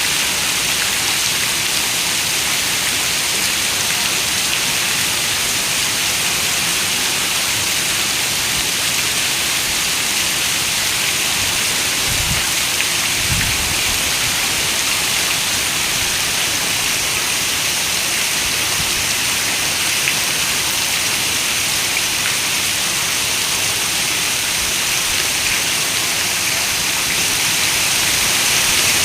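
Heavy rain falling steadily, a dense even hiss strongest in the high range, with a brief low rumble of thunder about halfway through.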